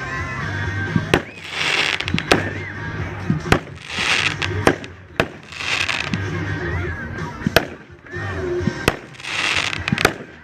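Dominator 'Hell's Gate' 200-gram consumer fan cake firing a rapid sequence of shots, about one a second: sharp cracks alternating with hissing, crackling breaks.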